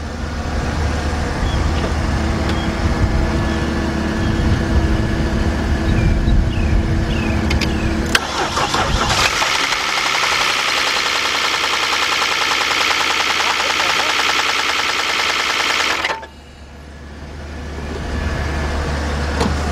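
A jump-start vehicle's engine idles with a low hum. About eight seconds in, the 2001 Saturn L300's 3.0 V6 is cranked for around eight seconds with a loud, harsh, rapidly repeating noise that does not sound good, then cuts off abruptly. The noise comes from an engine run with almost no oil on the dipstick.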